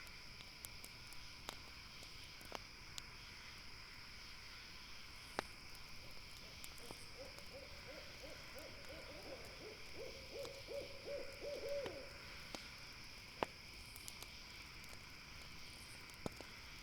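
An owl giving a run of short, quick hoots, about four or five a second, from about seven seconds in, growing louder before it stops about twelve seconds in. Under it runs a steady high insect drone, with a few sharp crackling pops from a campfire.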